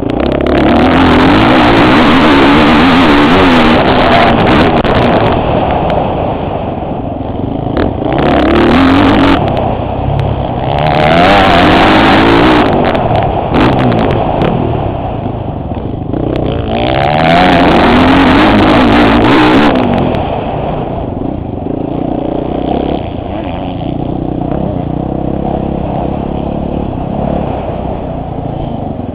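Motocross bike engine heard from the rider's helmet camera, revving hard through four long stretches of throttle with its pitch rising and falling through the gears, easing off between them.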